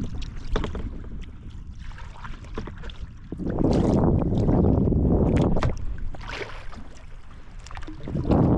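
Sea kayak on open water: water splashing and sloshing around the hull, with wind buffeting the microphone in loud surges lasting a couple of seconds.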